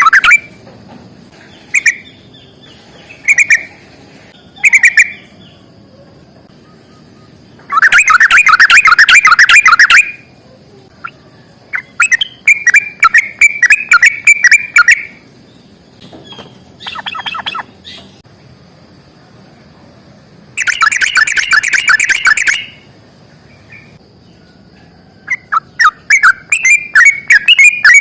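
Yellow-vented bulbul singing its long, rolling chatter in repeated bursts: a few short phrases, then several runs of rapid clicking notes lasting two to three seconds each.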